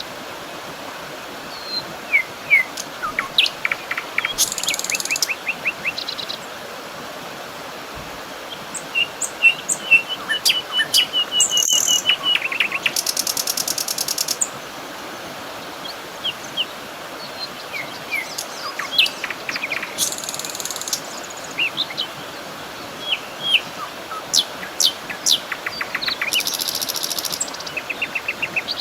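Several birds chirping and trilling over a steady background hiss, with short buzzy insect calls every several seconds.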